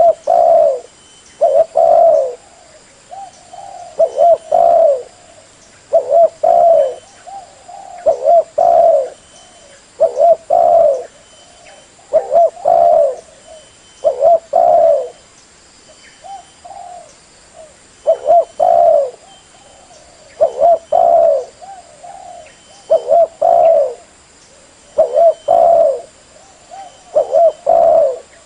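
Spotted dove (terkukur) cooing: short phrases of a few low, hoarse coos, repeated about every two seconds.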